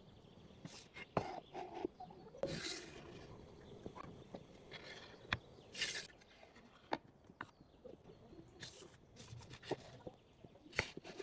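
Wood being handled and worked by hand: scattered light knocks and clicks, with a couple of short scraping rasps about two and a half and six seconds in.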